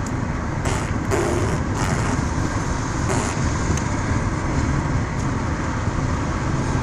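Steady low rumble of a motor vehicle's road and engine noise, with a brief faint tone about a second in.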